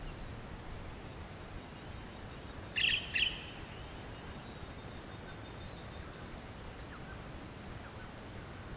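Wild birds calling over a steady low outdoor background noise: quick high twittering chirps, with two louder short calls close together about three seconds in.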